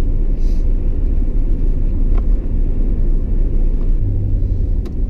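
Truck driving, heard from inside the cab: a steady low rumble of engine and road noise, with a low hum that grows stronger about four seconds in.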